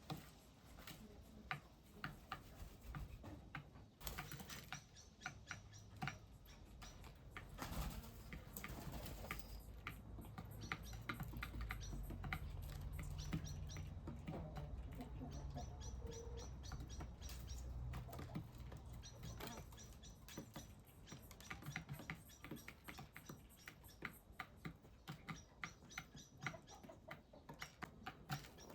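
Small birds chirping in quick runs of short high notes, over a steady patter of small clicks and taps. A low rumble rises in the middle and fades again.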